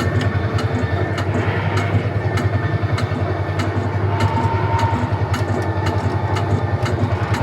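Tractor-ride vehicle running along the course: a steady low engine-like drone with regular clicks about three times a second.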